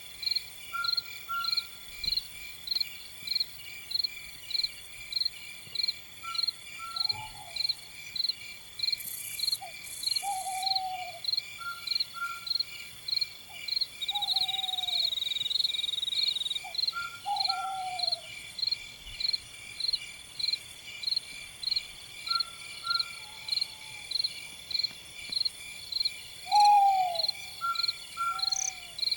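A night bird giving short, falling calls every two or three seconds, heard over crickets chirping about twice a second and a continuous high insect trill.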